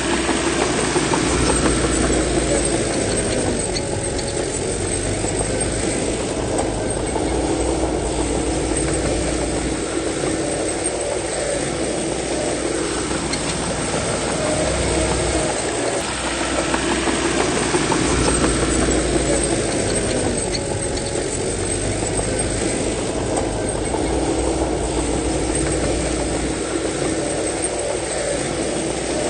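Heavy diesel engine of a bulldozer working steadily. Its note shifts up and down in a cycle that comes round about every 13 seconds, twice over.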